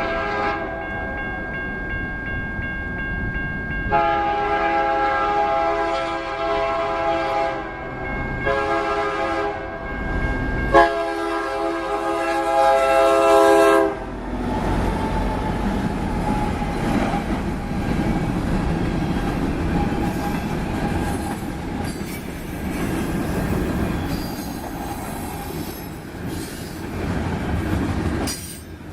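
Union Pacific EMD SD70M diesel locomotives' air horn sounding a chord in several blasts: a long one, a shorter one, then a long one. After that the locomotives and freight cars run past with loud engine rumble and steel wheels clattering over the rail joints.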